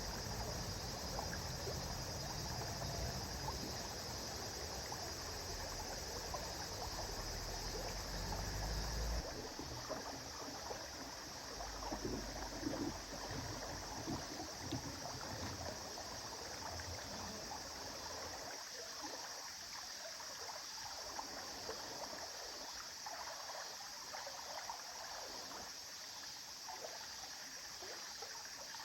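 River water flowing, a steady rush and trickle. About nine seconds in, the deep low rumble drops away abruptly, leaving a lighter, thinner flow.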